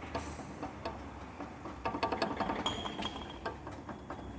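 Front shock absorber rod of a Renault Megane II, worked back and forth by hand, knocking in the worn shock with a quick rattle of clicks that is thickest in the middle. It is the noise of play in the shock rod, the cause of the car's front suspension knocking.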